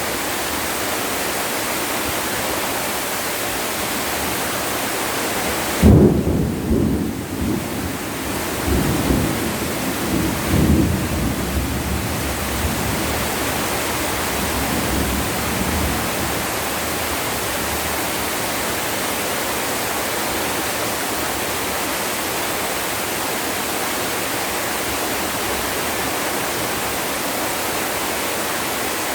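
Heavy rain falling steadily, with a sudden clap of thunder about six seconds in that rolls on as low rumbling for about ten seconds.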